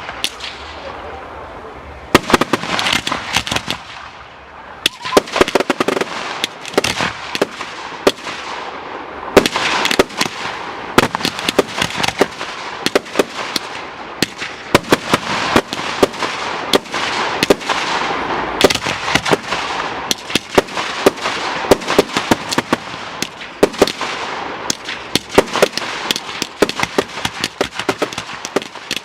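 Fireworks display going off: a dense run of sharp bangs and crackling reports, coming thick and fast with hardly a break, over a hissing haze.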